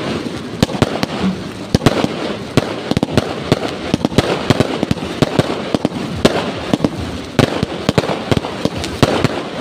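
Fireworks going off in quick succession: a dense, irregular string of sharp bangs, several a second, over a constant crackle.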